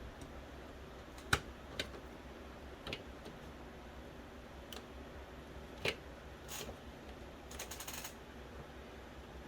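Scattered sharp clicks and taps of small plastic and metal parts of an original Xbox Philips DVD drive being handled during disassembly, with a brief scrape and then a quick rattle of clicks about two-thirds of the way through.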